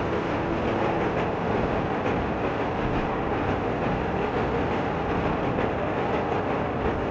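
Train running along the track: steady running noise with faint clicks from the wheels on the rails.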